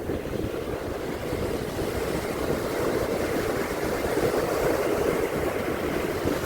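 Sea waves washing on a beach, a steady surf noise that swells a little partway through, with wind buffeting the microphone.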